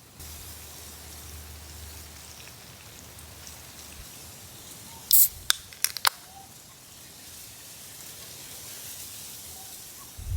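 Campfire crackling: a steady soft hiss with a cluster of sharp pops about five to six seconds in.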